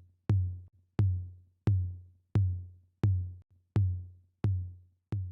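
Electronic drum-machine kick drum beating alone in a steady rhythm, about three hits every two seconds, each a sharp click with a low boom that fades away before the next.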